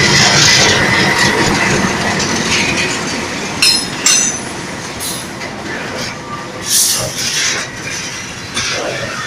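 Train running on the rails, a steady loud rumble that slowly fades, broken by sharp metallic clanks with short high-pitched squeals and ringing, about three and a half to four seconds in, at five seconds and near seven seconds.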